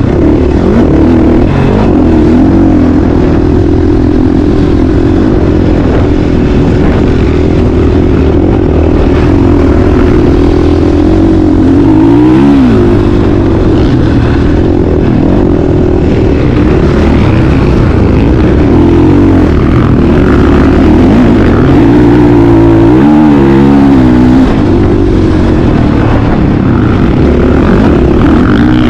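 Motocross dirt bike engine running hard and loud, its pitch mostly steady, then dropping and climbing again as the throttle is rolled off and back on, about twelve seconds in and again near the end.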